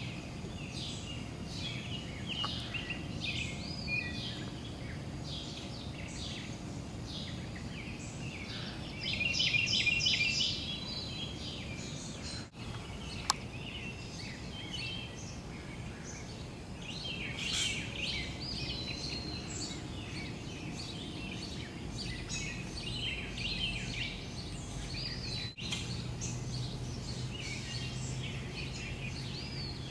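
Several small birds chirping and singing over each other, with a busier burst of song about nine seconds in, over a steady low background rumble. A single sharp click sounds about halfway through.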